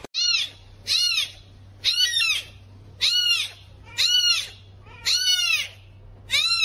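A very young tabby kitten mewing over and over: seven high-pitched mews about a second apart, each rising then falling in pitch.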